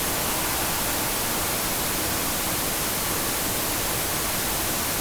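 Steady white-noise static hissing evenly, with no change in level.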